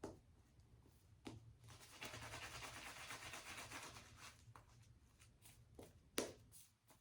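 Safety razor (vintage Gillette Tech with a 3D-printed base plate) scraping through stubble and lather in one faint stroke of about two and a half seconds, a fine crackle of whiskers being cut. A few light taps come around it, and a sharper tap near the end is the loudest sound.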